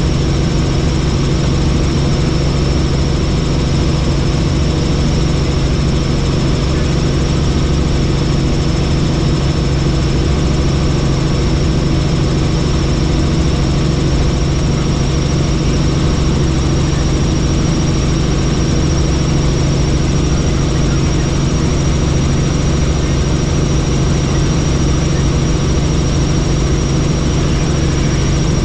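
Helicopter in flight: engine and rotor running steadily, a low drone with a thin high whine above it and no change in pitch or level.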